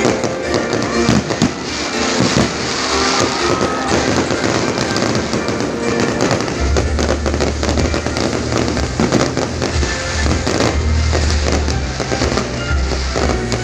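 Fireworks bursting and crackling in quick succession over loud music, which picks up a heavy bass about halfway through.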